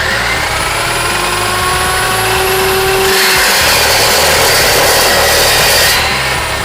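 An electric power tool working steel: a steady whine with slowly shifting tones, growing louder and harsher about three seconds in, then dropping off about six seconds in.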